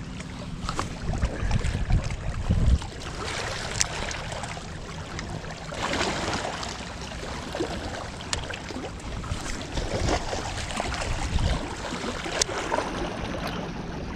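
Outdoor lakeside noise: water lapping with wind rumbling on the microphone, and a few sharp clicks.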